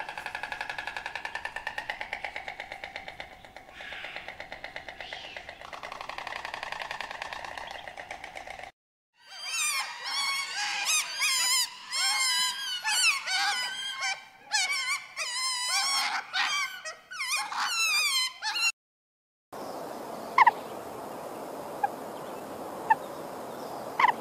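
Animal calls, mostly birds, in three short clips. First a long buzzing, pulsing call at a steady pitch. Then rapid warbling song of many quick rising and falling whistles. Then a low hiss with a few brief chirps.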